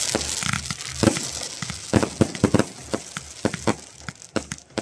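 Fireworks going off: a dense crackling hiss of bursting shells that dies away over the first couple of seconds, with a run of sharp bangs at irregular intervals throughout.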